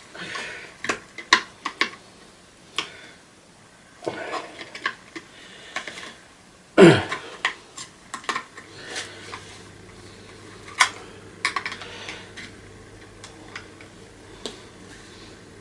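Scattered clicks, knocks and clatter of a screwdriver and hand tools working on the plastic casing of an old vacuum cleaner, with one louder knock about seven seconds in.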